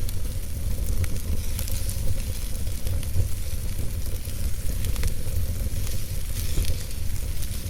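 Wood logs burning in a fireplace: a steady low rumble of the flames with a hiss and many scattered sharp crackles and pops.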